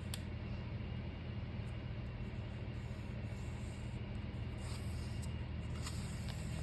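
Steady low hum and faint hiss of room tone, with a small click at the start and faint rustling about two-thirds of the way through.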